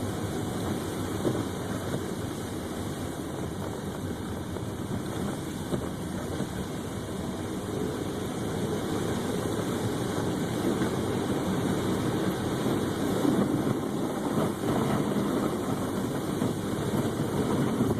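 Steady engine and road noise inside a car's cabin, picked up by a dash camera, getting a little louder about halfway through.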